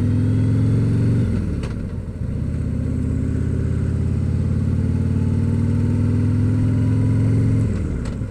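Motorcycle engine running on the road, its pitch climbing slowly, then dropping briefly about a second in and again near the end.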